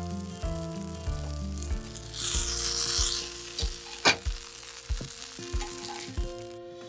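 Buns frying in oil in a cast-iron skillet, sizzling loudest for about a second around two seconds in as the last of the steaming water cooks off and the bottoms brown. About four seconds in there is one sharp click as the metal spatula strikes the pan. Background music with a steady beat plays throughout.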